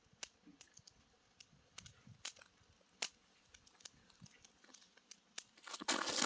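Wood campfire crackling: scattered sharp, irregular pops and snaps. A louder, denser rustling crackle comes near the end.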